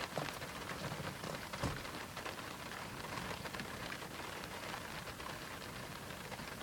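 Rain pattering on a car's roof and windows, heard from inside the closed car. A few sharper drop taps come in the first two seconds.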